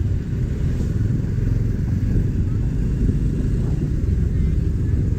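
Motorcycle riding along at a steady pace, with a dense low rumble and no breaks.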